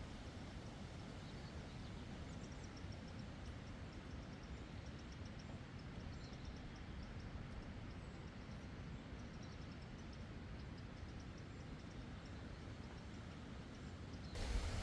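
Quiet meadow ambience: a steady low rumble of wind on the microphone, with faint, high, rapid chirping in quick runs from about two seconds in to the middle of the stretch. A louder rustle starts right at the end.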